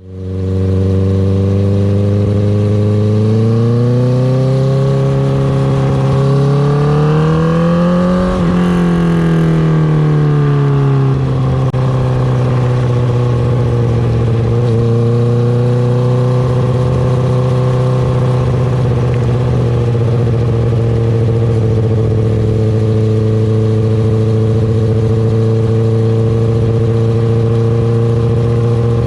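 2019 Honda CB650R's inline-four engine through an Akrapovic Racing Line titanium exhaust. The revs climb smoothly for about five seconds, drop back over the next few, then hold at a nearly steady engine speed.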